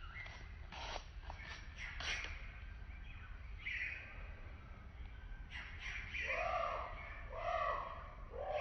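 Wild birds calling: quick chirps and short calls in the first half, then from about six seconds in a run of repeated calls, roughly one a second, over a low steady background rumble.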